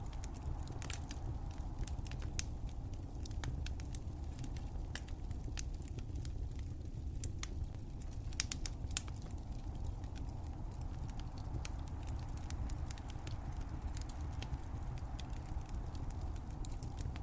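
Wood fire crackling, with irregular sharp pops scattered over a steady low rumble of the flames; a small cluster of louder pops comes a little past the middle.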